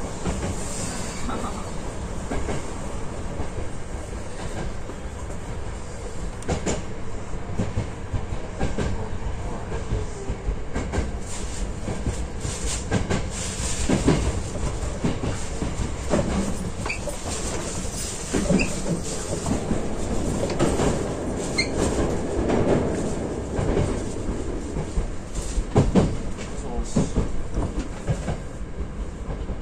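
Hankyu electric train running, heard from inside the front car: steady wheel-on-rail rumble with repeated clicks over rail joints and points, and a few short high wheel squeals about halfway through.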